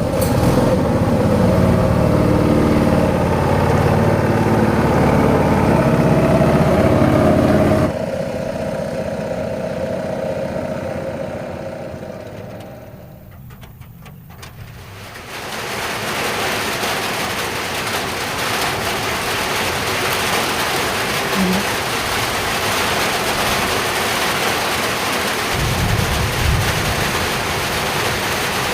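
A small engine runs steadily for about eight seconds and then fades away. From about halfway through, heavy rain pours down as a steady hiss.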